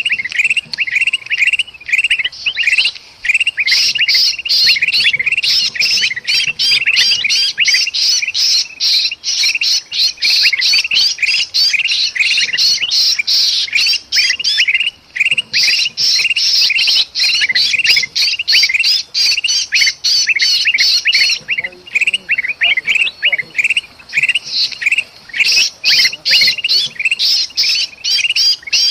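Bulbuls (kutilang) giving rapid, harsh, agitated chattering calls in dense runs with brief lulls: the noisy alarm and distress calling of a trapped bird, used as a lure for other birds.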